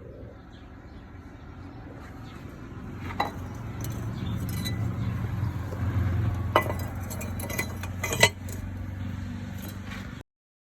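A low rumble growing louder, with a few sharp metallic clinks over it; the sound cuts off suddenly near the end.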